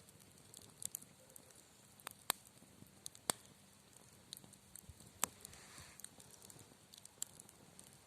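Wood campfire crackling: scattered sharp pops and snaps at irregular intervals over a faint, steady background.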